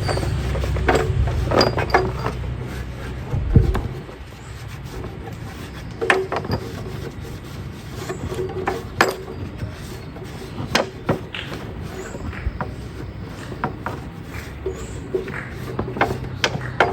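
A motor runs with a low, steady hum, then stops with a knock about three and a half seconds in. After that come scattered sharp clicks and knocks of metal parts and tools being handled.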